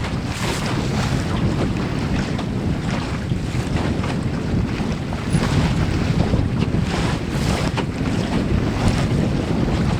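Strong wind buffeting the microphone, with water rushing and splashing along the hull of a wooden Melonseed skiff under sail.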